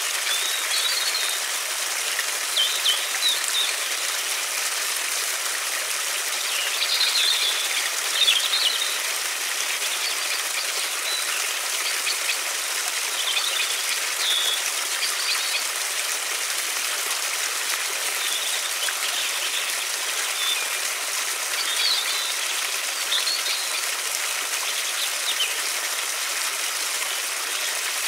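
River water running steadily, with short bird chirps breaking in every few seconds.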